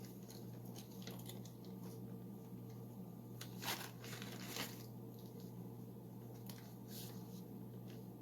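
Faint crinkling and rustling of packaging as puff pastry dough is taken out of its wrapping, with two brief louder rustles near the middle, over a steady low hum.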